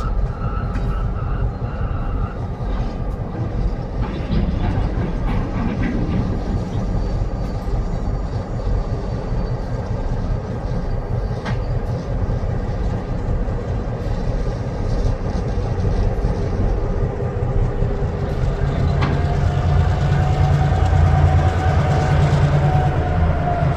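Diesel switcher locomotive working freight cars on rail: a steady heavy rumble with occasional sharp clanks, the engine getting louder over the last few seconds as a steady high whine joins in.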